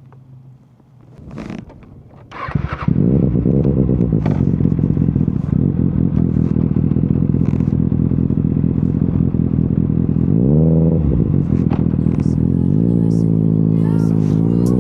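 A couple of soft knocks and scrapes from a microphone being handled, then a motorcycle engine comes in loud and runs steadily. Its revs rise and fall once about ten seconds in, then climb steadily near the end.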